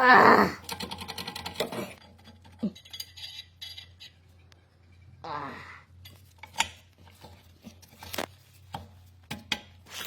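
Metal tools and brake parts clinking and clicking as they are handled. A loud clatter comes first, then a quick run of clicks, then scattered single clicks.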